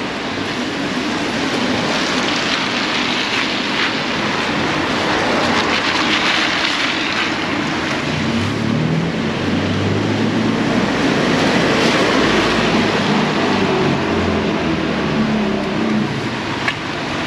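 Heavy rain pouring down in a steady hiss. A motor vehicle's engine hums low through the middle and latter part.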